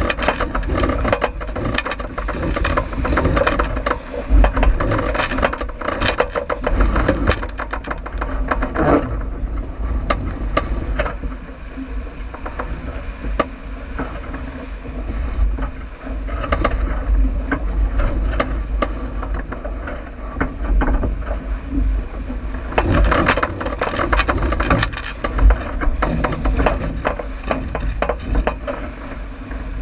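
A J80 sailboat under way downwind: wind buffeting the microphone with a heavy rumble, water rushing along the hull, and frequent knocks and rattles from the boat. The knocking is busiest in the first third and again a little past the middle.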